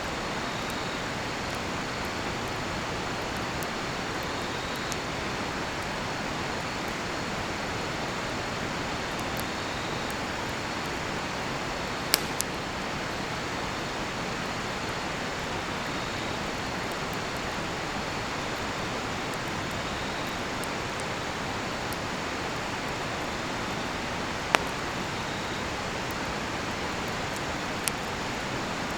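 Steady rush of a flowing river with a cedar-wood campfire crackling, giving a few sharp pops, the loudest about 12 and 24 seconds in. Crickets chirp faintly in a high steady trill.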